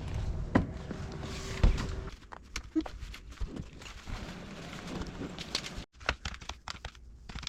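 Irregular knocks and clicks, with one louder thump about a second and a half in.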